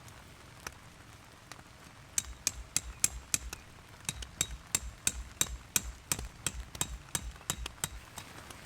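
A hammer striking repeatedly in quick, even blows, about three a second, starting about two seconds in.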